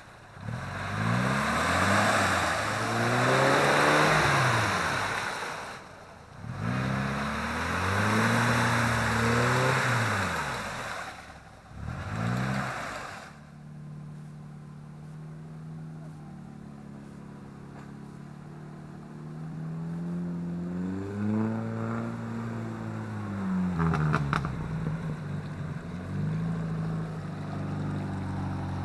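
Off-road 4x4 engine revving up and falling back again and again, under a loud rushing noise, for about the first half. After that the engine runs quieter and steadier, revs up once, and there are a few short clicks near the end.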